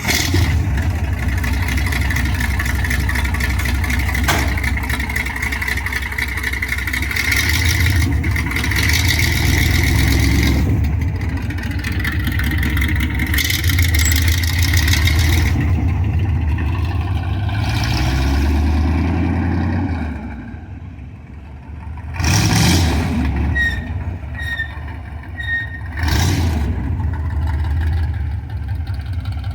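Ford V8 engine of a rat rod running loudly, revved up and down several times. It eases off to a lower idle about two-thirds of the way through, then is blipped sharply twice.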